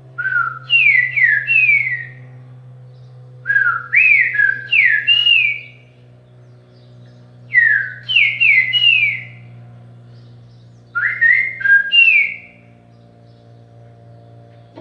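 A man whistling in imitation of a bird's song: four short phrases, each of three or four quick notes that jump up and slide down, with pauses of a second or two between them. A steady low hum runs underneath.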